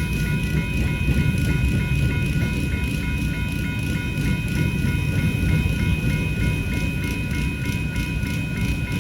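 Railroad grade-crossing bells ringing in a steady, even rhythm over the low rumble of a freight train passing through the crossing.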